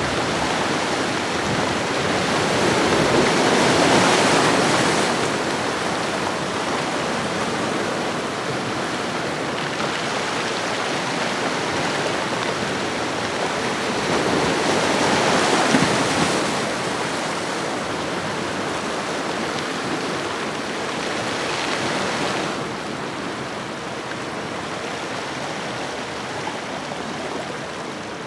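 Ocean waves washing onto a shoreline: a steady rush of surf that swells three times, strongest about 4 and 16 seconds in and again near 22 seconds, then settles a little quieter.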